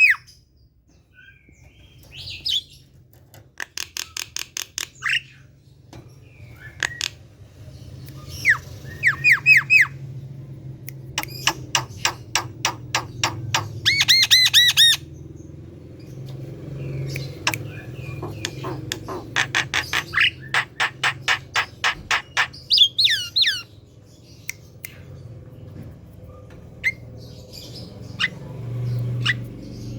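Javan myna calling in repeated bursts of rapid, sharp notes, about ten a second, each burst lasting a second or two, with a few gliding whistled notes mixed in.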